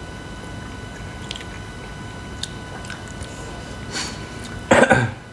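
A person chewing food close to the microphone, with a few faint small clicks and a short, louder burst of noise near the end.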